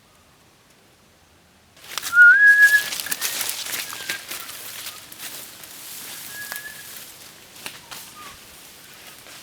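A sudden burst of rustling noise with a short whistle that rises and then holds, followed by fainter rustling, a few clicks and two more brief whistles.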